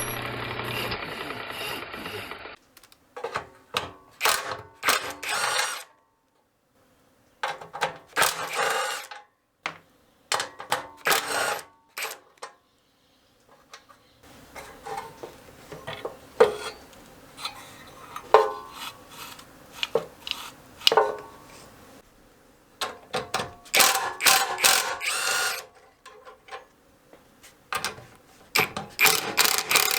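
A steady buzz that stops about two and a half seconds in, then intermittent hand-tool work on a small engine: short scrapes, clicks and metal-on-metal handling noises in irregular bursts with brief pauses.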